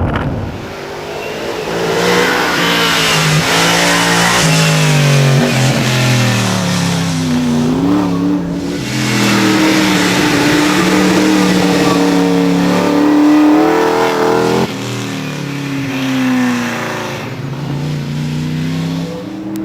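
American V8 race car accelerating hard on a hillclimb, its engine pitch rising through each gear and dropping at every upshift. It gets quieter about fifteen seconds in.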